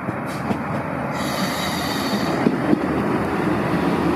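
Irish Rail 2600 class diesel multiple unit passing close by, its running noise growing louder, with a high-pitched wheel squeal from about one to two and a half seconds in.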